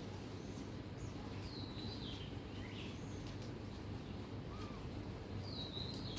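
Steady low outdoor background noise with a few short bird chirps scattered through, the clearest near the end.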